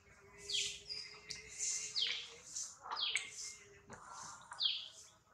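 Birds chirping over and over: short, high calls about two a second, several of them sweeping downward in pitch.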